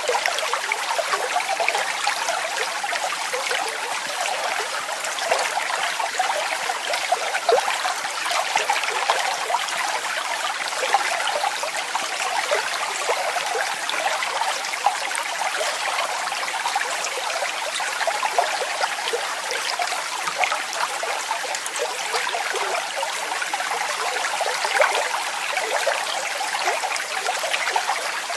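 Small waterfall: water running and splashing steadily, with fine trickling detail and no deep rumble.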